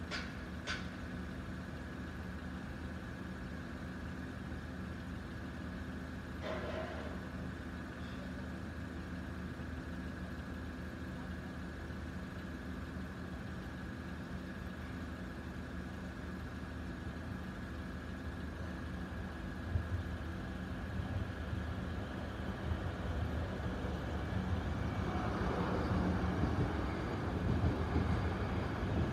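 Road traffic idling at a closed level crossing, a steady engine hum; from about 20 s in a passenger train's rumble builds and grows loudest near the end as the train passes over the crossing.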